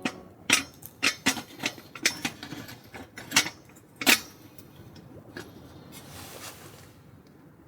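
A quick, uneven run of sharp clicks and knocks from small hard objects being handled, about a dozen over four seconds, the loudest two near the middle, then fainter rustling.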